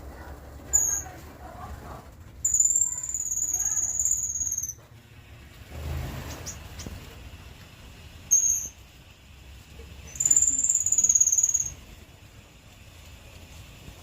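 Gouldian finches calling: a few brief, very high, thin notes and two long, thin, high-pitched whistles of about two seconds each, with fainter lower chirps between.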